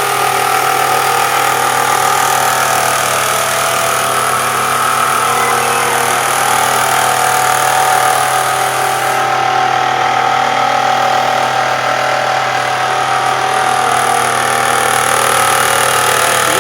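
Engine running steadily with a constant whine over its hum, a noise the owner suspects comes from a worn alternator bearing.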